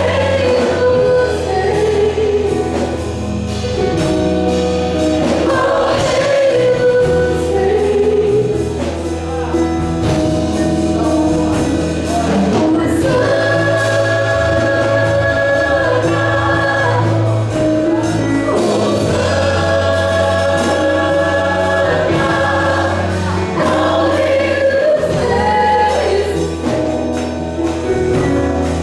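Christian gospel music with a choir singing long held notes over a steady bass.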